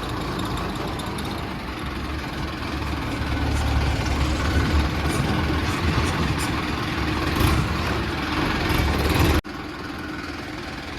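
Mahindra Arjun 555 tractor's diesel engine running steadily with a heavy low rumble. About nine seconds in, the sound drops abruptly to a quieter, steady engine note.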